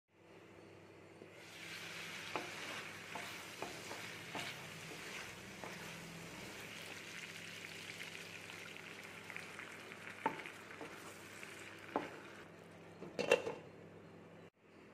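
Prawns in oil and spice masala sizzling in a pan: a steady frying hiss with small crackles and a few sharp clicks, the loudest just before the end.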